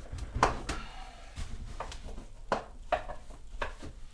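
Irregular clicks and knocks, about seven in all, as the pressure washer's plastic housing and tools are handled during disassembly.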